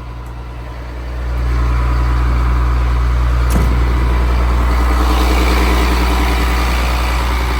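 Caterpillar diesel engine of a Freightliner FL80 truck running; it gets louder about a second in and holds there. A single sharp click about halfway through.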